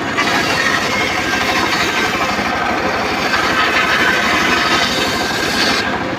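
Homemade circular saw rig running under engine power, its blade cutting through teak. The cutting noise stops suddenly near the end, leaving the engine running.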